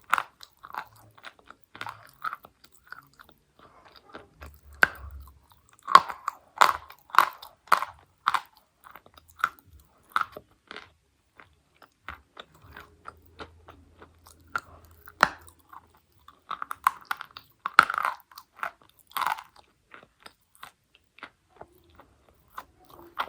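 Close-miked biting and chewing of dry edible chalk: sharp, irregular crunches, coming thick and loud in two runs, a few seconds in and again past the middle, with quieter chewing between.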